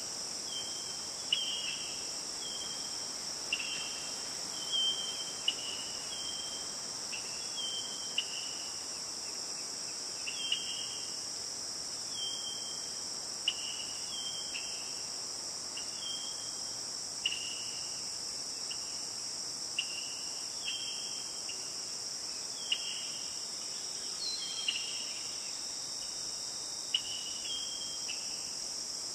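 Steady, high-pitched insect chorus of crickets. Over it, a short chirping call near the middle of the range repeats about every second or two, each starting with a sharp click and dropping at the end.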